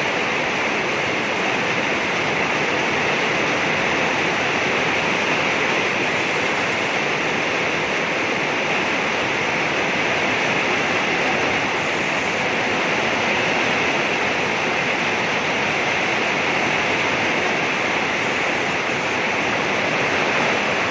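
Rain pouring steadily, a dense, even hiss of falling water.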